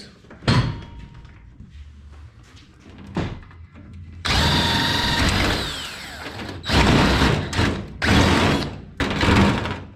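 Power tool work on a race car's body: a sharp knock about half a second in, then from about four seconds in several loud bursts of a cordless drill running, one ending in a falling whine as it winds down.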